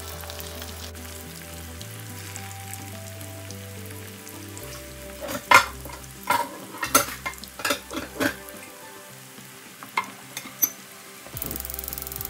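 Cauliflower kofta balls deep-frying in hot oil, sizzling steadily. A spoon knocks against the pot several times from about five to eight seconds in and twice more near ten seconds, as the koftas are stirred and turned.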